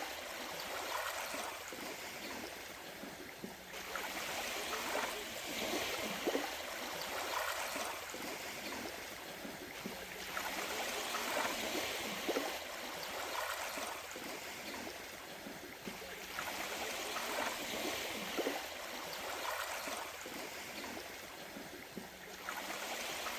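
Water sloshing and trickling, with small irregular splashes.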